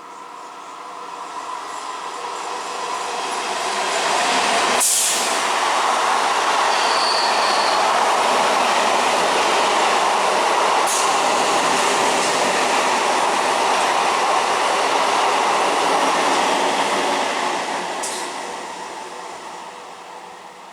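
A train passing at speed on Indian Railways track: its running noise builds as it approaches, holds loud for about twelve seconds as the coaches rush by, then fades away. Three sharp cracks ring out as it passes, the loudest as it arrives, and a brief high wheel squeal sounds about seven seconds in.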